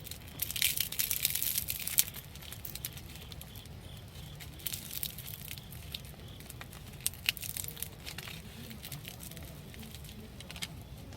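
Crinkling and rustling handling noise, a dense burst in the first two seconds, then scattered sharp clicks and crackles.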